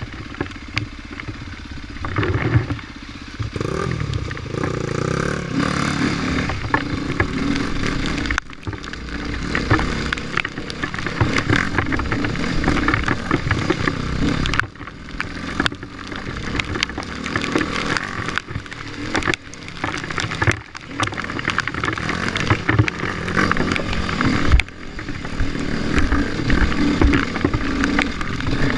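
Off-road enduro motorcycle engine revving up and down as it rides a rough trail, the throttle shut off briefly several times, with clattering knocks from the bike over the ground.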